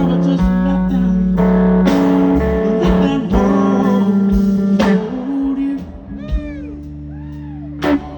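Live blues band playing a slow soul ballad: guitar, bass and drums under a man singing. The band drops to a softer passage about five seconds in, with notes gliding up and down.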